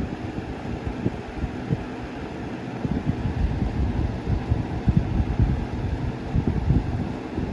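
1995 Windmere box fan running, its airflow making an uneven low fluttering rumble on the microphone.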